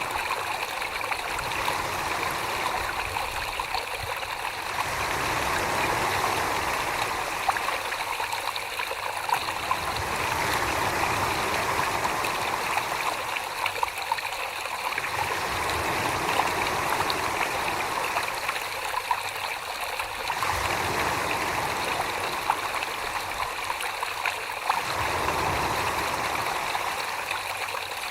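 Wet, trickling, water-like sloshing of hands working wet clay on a spinning potter's wheel, swelling and easing in slow waves about every five seconds.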